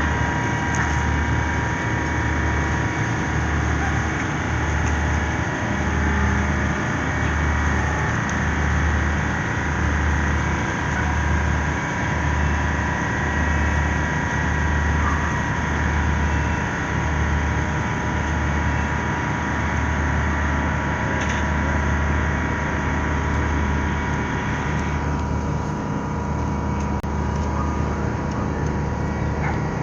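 Large ship's diesel engine running steadily, a low throb pulsing about once a second under a constant mechanical hum.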